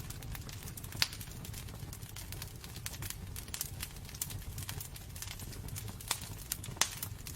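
Wood fire burning in a fireplace: a steady low rumble with frequent crackles and pops, the sharpest about a second in and twice near the end.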